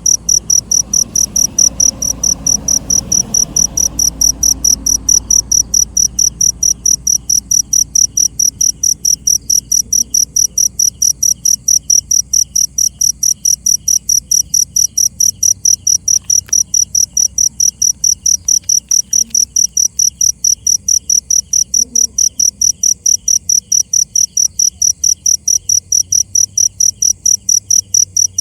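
A cricket chirping in a fast, even, unbroken train of high chirps, several a second, with a second, fainter and lower pulsing call behind it.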